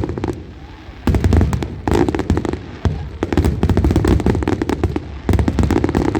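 Fireworks going off in a display: loud, rumbling booms of shells bursting, overlapped by dense clusters of sharp crackling pops.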